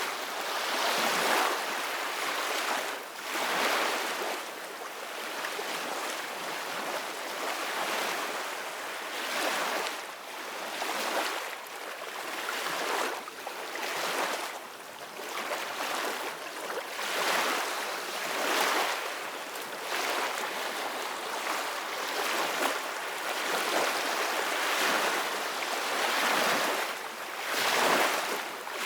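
Ocean waves breaking and washing up on the shore, a continuous hiss of surf that swells and eases every second or two.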